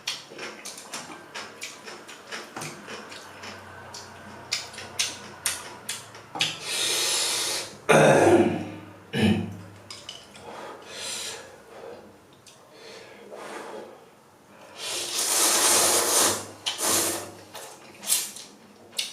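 Close-up eating of instant ramen noodles: steady wet chewing clicks, with long noodle slurps about six seconds in and again about fifteen seconds in.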